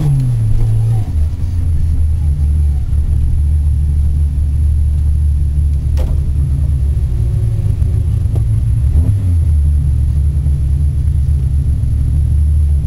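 Rally car engine heard from inside the cabin on a dirt stage: a loud, low drone whose revs rise and drop a few times. A single sharp click comes about six seconds in.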